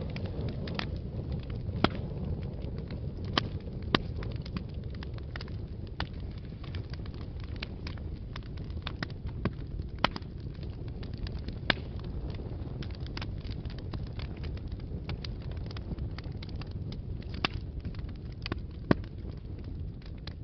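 Wood fire burning in a fireplace: a steady low rumble of flames with frequent irregular crackles and sharp pops, a few louder snaps scattered throughout.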